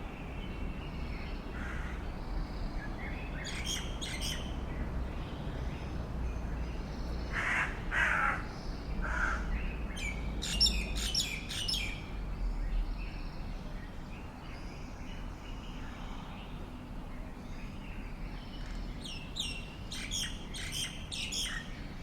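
Birds calling: three bursts of rapid high chirps, and a harsher, lower call about eight seconds in, over a steady low background rumble.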